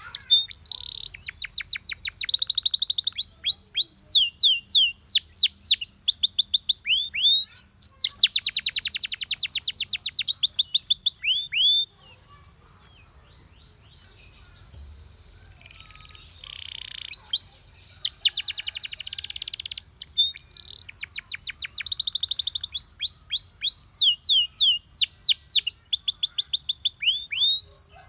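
Domestic canary singing: phrases of rapid trills and runs of repeated downward-sweeping notes. The song stops for about two seconds near the middle, then starts again softly and builds back up.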